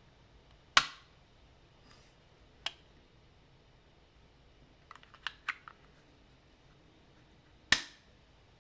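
Sharp plastic clicks and snaps from handling the battery compartment and cover of a LEGO WeDo 2.0 hub. Two loud clicks come about seven seconds apart, with a fainter one between them and a quick run of small clicks around the middle.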